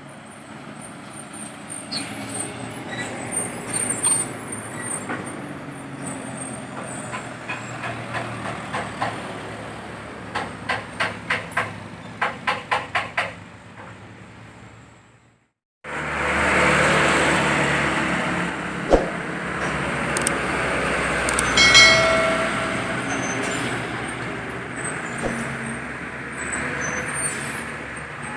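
Heavy trucks on a road: steady traffic noise with a quick run of even pulses about three a second, then after a brief cut to silence a loud truck passing close by.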